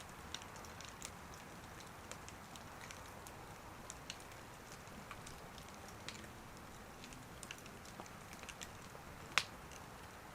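Wood fire crackling: a faint steady hiss with scattered sharp pops and snaps, the loudest one about nine seconds in.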